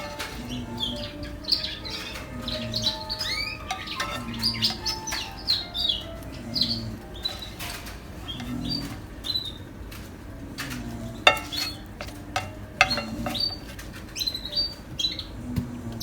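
Small bird chirping and twittering in quick, short notes that rise and fall, with a few sharp clicks among them.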